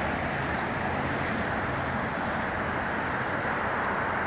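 Steady road traffic noise, an even rushing hum with some low rumble.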